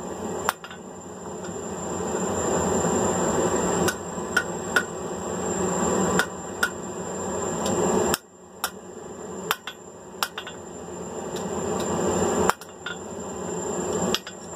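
Hand hammer striking hot mild steel bar on an anvil while a hook is forged, in scattered blows a few at a time. Under the blows there is a steady rushing noise that swells and breaks off suddenly twice.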